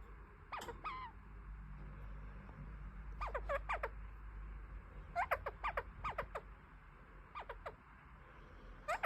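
Kakariki (New Zealand parakeet) chattering: several short bursts of quick, sweeping chirp notes.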